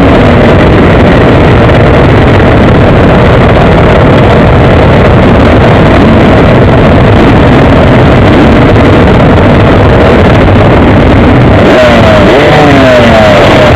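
Motocross bike engine heard from an onboard camera, running loud under load with heavy wind and rushing noise; near the end it revs up in a few quick rising sweeps.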